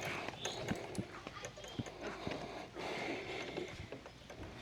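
Irregular light knocks and clicks, several a second.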